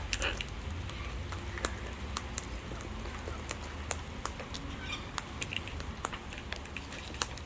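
Scattered sharp taps and clicks over a low steady hum, with a few faint, brief bird chirps about five seconds in, at a feeding spot for wild parrots.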